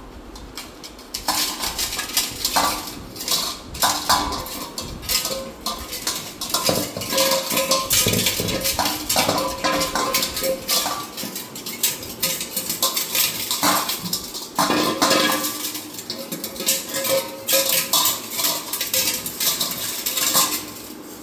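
A dog at a metal food bowl, the bowl clanking, scraping and ringing in irregular knocks as it is pushed about while the dog eats.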